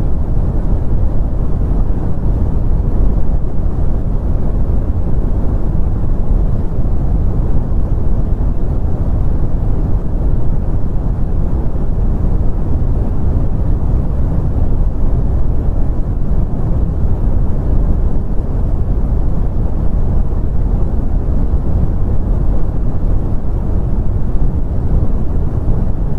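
Continuous brown noise: a loud, steady, deep rumbling hiss with most of its energy in the low bass, fading away in the treble, with no tones or changes.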